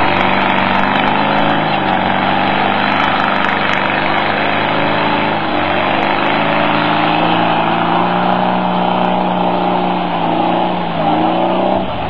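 Volkswagen Beetle's air-cooled flat-four engine running under load while driving through deep mud, holding a steady pitch with a brief dip about halfway and revs climbing and falling near the end.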